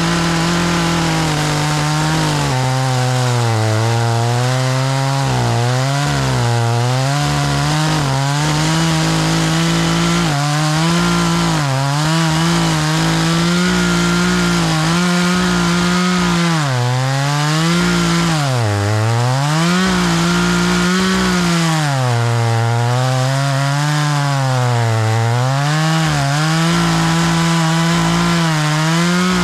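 Chainsaw running through a log, its engine speed bogging down and picking back up again and again as the chain bites. The chain is dull: it struggles to get through the wood and cuts crooked.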